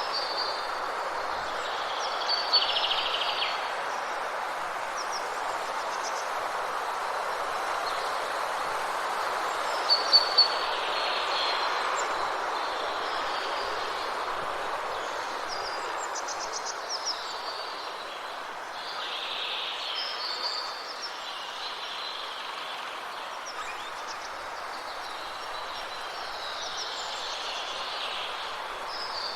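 Forest ambience: birds chirping in short repeated calls every few seconds over a steady rushing noise of rain in the trees.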